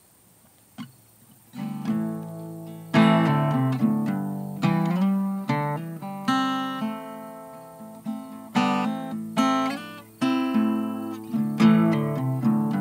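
Acoustic guitar played solo as the song's introduction. A couple of soft plucks come first, then strummed chords begin about a second and a half in and grow louder about three seconds in, each chord ringing and fading into the next.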